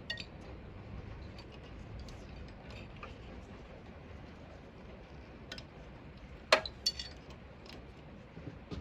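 Light clicks and clinks of metal tools and parts being handled during engine disassembly, with one sharp clink about six and a half seconds in and a couple more just after.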